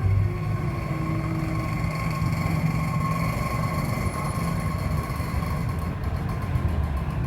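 A motor vehicle engine running steadily at idle, a constant low rumble with a thin steady whine above it.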